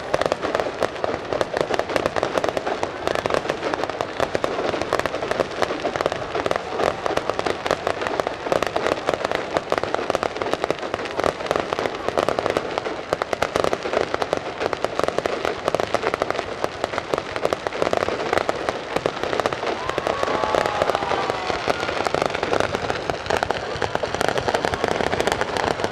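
Aerial fireworks bursting overhead in a dense finale barrage: a continuous rapid crackle of many small reports, with no break.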